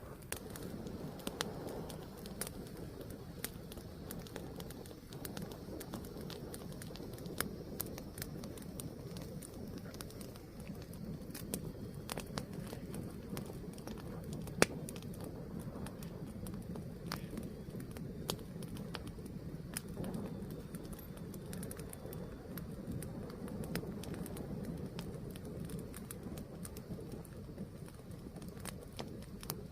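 A wood fire burning: a steady low rush of flames with irregular crackles and pops, one much louder pop about halfway through.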